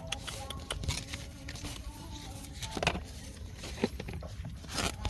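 Irregular rustling and crackling with scattered sharp clicks over a steady low rumble, the loudest clicks about three and four seconds in.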